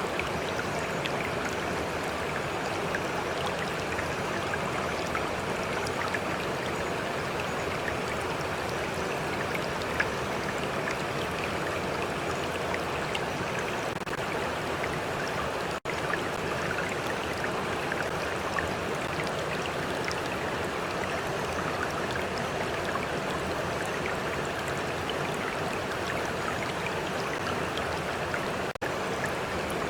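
Stream water flowing steadily, with a continuous rushing and small lapping splashes and trickles. The sound dips out for an instant twice.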